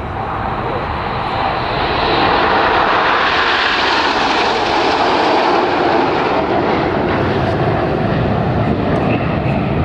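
A formation of BAE Hawk T1 jets, whose Adour turbofans give a broad jet rush, passing close. The sound swells over the first couple of seconds and then stays loud and steady.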